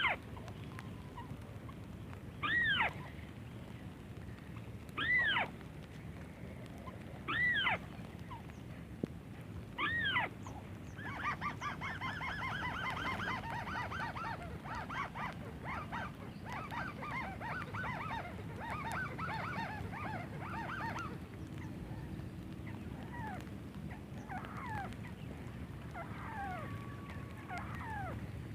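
White-browed crake calls: a short nasal call repeated five times at an even spacing of about two and a half seconds, then a long run of rapid chattering notes lasting about ten seconds, followed by fainter scattered calls.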